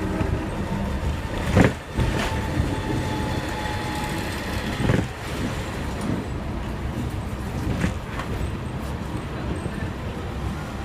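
Hong Kong double-decker electric tram running along its tracks: a steady low rumble with a few sharp knocks and clanks, and a faint whine for a couple of seconds early on.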